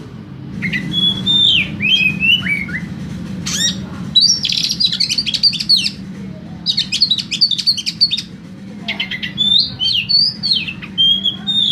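Oriental magpie-robin (kacer) singing energetically: varied whistled phrases that slide up and down, broken by rapid rattling runs of notes about four and seven seconds in. A steady low hum runs underneath.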